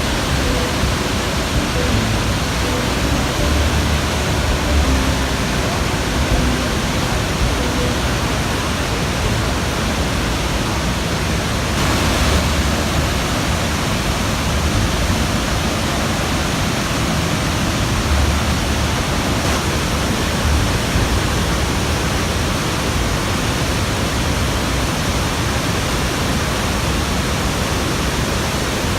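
Victoria Falls' water crashing down into the Zambezi gorge: a loud, steady rushing roar, with irregular low rumbling swells underneath.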